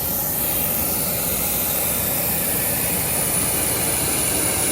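Steady jet turbine noise with a constant high-pitched whine above it.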